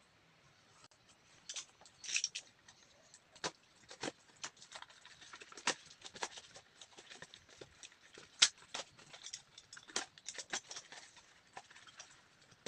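Handling noises: irregular clicks, taps and rustles of the humidifier being handled or unpacked, with a sharper knock a little past the middle.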